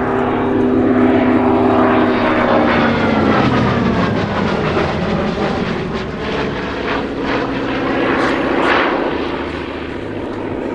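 Hawker Fury's Bristol Centaurus radial piston engine, heard from a propeller fighter flying past. The engine note is loud and drops in pitch as the aircraft passes, then swells again near the end.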